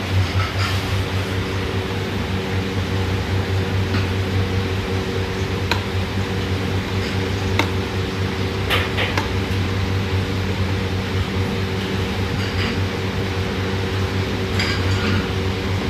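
Philips electric blender motor running steadily at one speed, with a few sharp clicks and light rattles scattered through.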